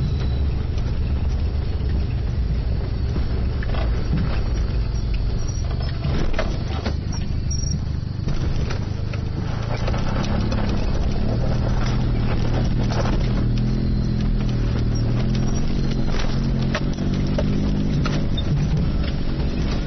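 Suzuki Jimny JA22's small turbo three-cylinder engine running as it drives off-road, a steady low drone that settles into a clearer, even note about halfway through. Scattered knocks and rattles run through it.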